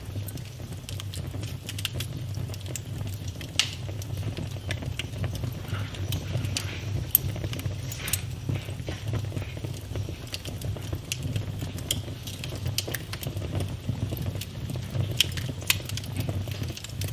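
Wood fire in a fireplace crackling, with irregular sharp pops, a few of them louder, over a steady low rumble.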